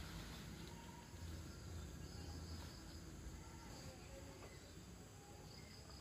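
Faint, steady chirping of crickets and other insects, with a low hum of background noise beneath it.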